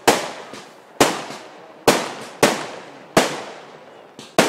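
Fireworks going off in a quick series of about six sharp bangs, a little under a second apart, each trailing off in a short echo.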